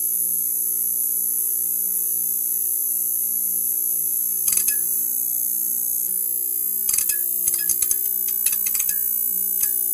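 Neon sign buzzing with a steady electrical hum and a high hiss. A few sharp clicks come about halfway through, and a scattered run of clicks fills the last three seconds.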